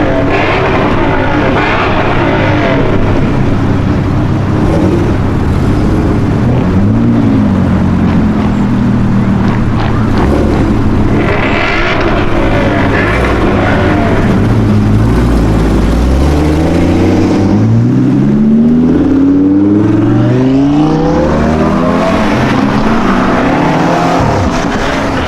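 Sports car engine running loudly, holding a steady note, then accelerating through a series of rising revs in the last third.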